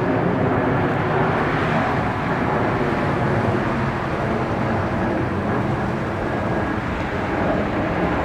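Jet airliner's engines running, a steady rush of noise that holds even throughout.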